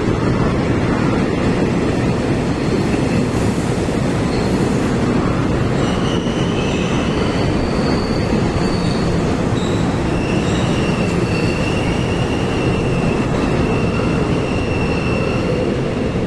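Train running through a station: a steady heavy rumble of wheels on rail, with high-pitched wheel squeals that start about six seconds in and waver on and off.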